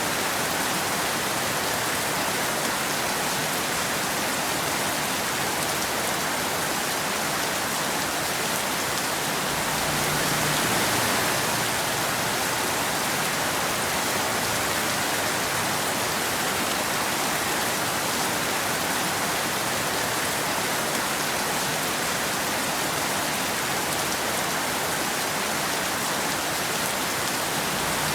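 Steady rain falling, an even hiss that swells slightly about ten seconds in.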